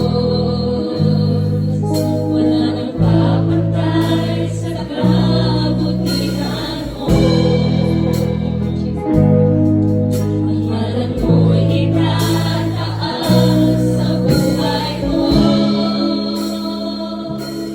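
Gospel praise-and-worship music: a choir singing over sustained chords and a strong bass line, the chords changing every second or two.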